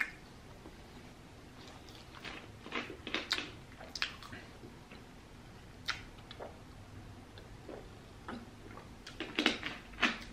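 Close-miked chewing of a soft sub sandwich: irregular wet mouth clicks and smacks, bunched in short runs. About halfway through come sips of soda from a plastic bottle.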